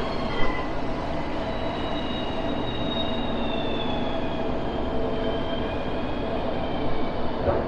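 Rail vehicle running along the track with its wheels squealing: several thin, high-pitched tones that slowly drift down in pitch over a steady low rumble.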